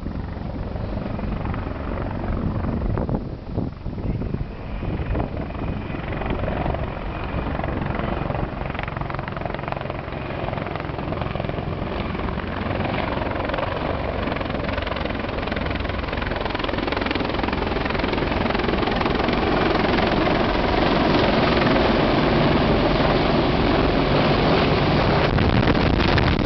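Helicopters coming in to land, the rotor and engine noise growing steadily louder as they draw near.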